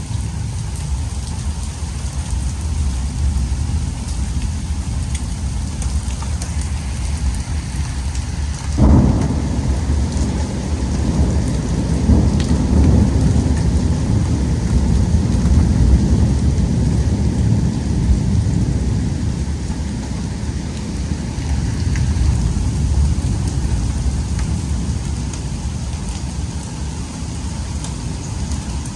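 Thunderstorm: heavy rain falling steadily. About nine seconds in, a sudden crack of thunder rolls into a long, low rumble that lasts about ten seconds before fading back under the rain.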